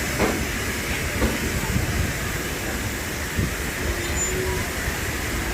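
Train running on the tracks: a steady rumble and hiss, with a few short knocks.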